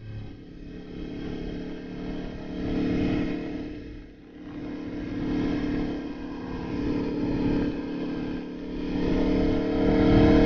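Aprilia Tuono motorcycle engine heard from the bike while riding, the engine note swelling and easing with the throttle, dipping briefly about four seconds in. Near the end the pitch climbs as the bike accelerates.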